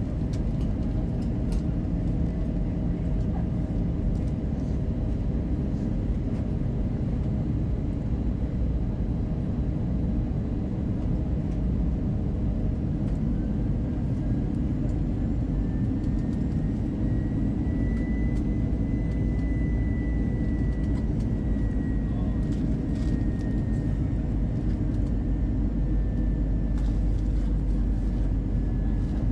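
Steady airliner cabin noise inside an Airbus A320-200 in flight, a deep even roar of engines and airflow. A faint whine comes in about halfway through, rises a little in pitch, then sinks slightly.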